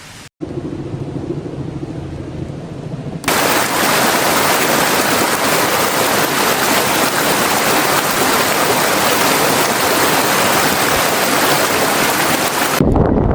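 Rushing water, a steady, even hiss that gets abruptly louder about three seconds in. Near the end it gives way to wind buffeting the microphone.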